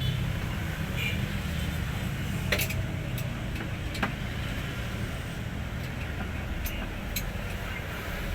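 Hino 500 truck's diesel engine running at a steady idle, with a few sharp clicks over it.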